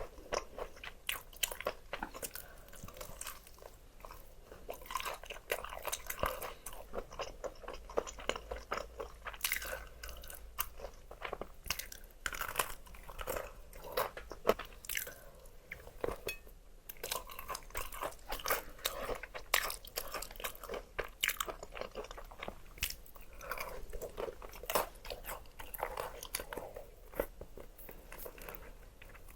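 Close-miked eating of crispy food: a steady run of crunchy bites and chewing, with a brief pause a little past the middle.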